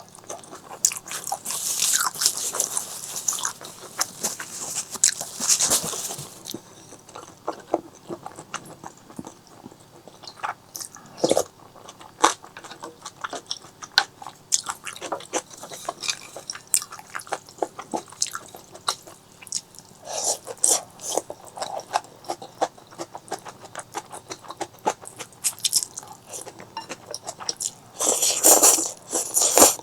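Close-miked eating sounds: chewing, biting and crunching with many wet mouth clicks. There are louder, hissier stretches in the first few seconds and again shortly before the end.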